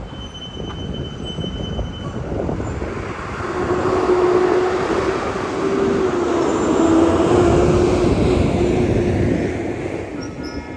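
A heavy city bus driving past: engine and tyre noise builds from about three seconds in, stays loudest through the middle with a steady whine, and eases off near the end.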